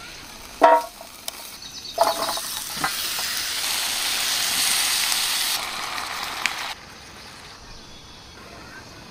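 Chicken and potato chunks frying in a pan as a dark sauce is stirred in: two short metallic clinks, then a loud sizzle that cuts off suddenly about seven seconds in.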